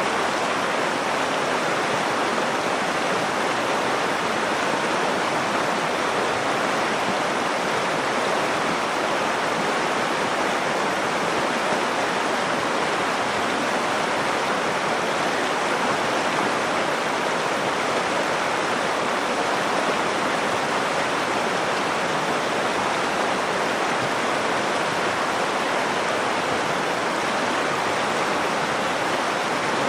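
The Nakdong River's water flowing: a steady, even rush with no breaks or changes.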